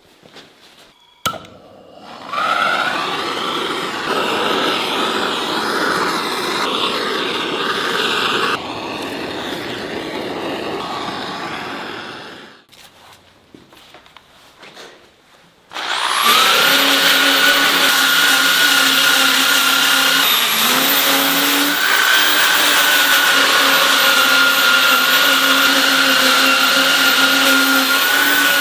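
Electric rotary sanding tool working the wood of the carving, in two runs. A rough grinding sound with a wavering pitch starts about two seconds in and stops before halfway. After a short pause the motor spins up with a rising whine and then runs at a steady high pitch.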